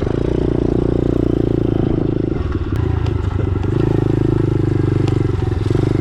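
Dirt bike engine running at low speed, swelling and easing with small throttle changes.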